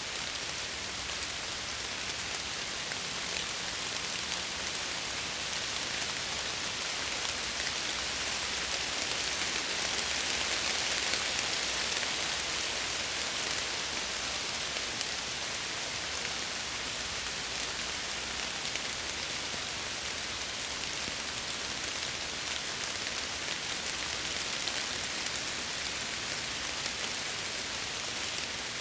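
Steady rain pattering against window glass, a dense even hiss with fine droplet ticks that swells slightly about ten seconds in.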